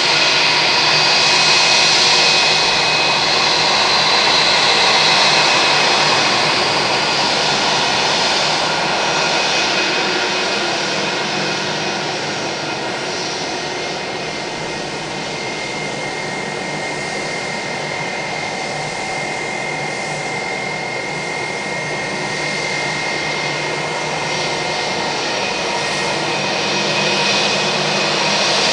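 Airbus A320-232's IAE V2500 jet engines running with a steady whine over a broad rushing noise, the loudness slowly swelling and easing.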